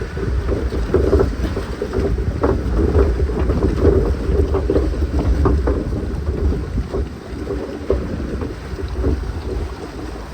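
Log flume boat riding through the water channel: a steady low rumble of water and wind on the microphone, with irregular knocks and splashes throughout.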